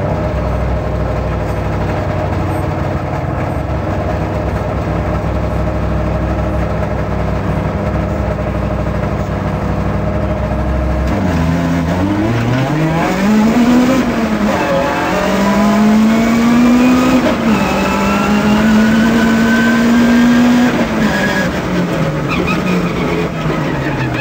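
Citroën Saxo rally car engine heard from inside the cabin. It runs at a steady note for about eleven seconds, then the car sets off and the engine note climbs, drops back and climbs again as it accelerates hard through the gears.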